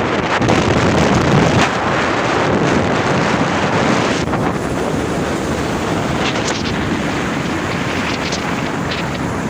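Heavy wind rushing over the microphone, with vehicle and road noise underneath.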